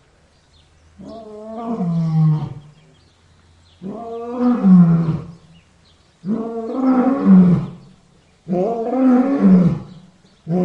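Lion roaring: four loud roars about two and a half seconds apart, each drawn out for about a second and a half and dropping in pitch at its end, with a fifth beginning just at the end.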